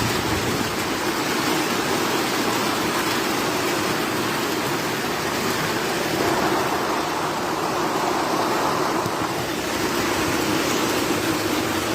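Steady rain pouring down, an even hiss with a steady low hum underneath.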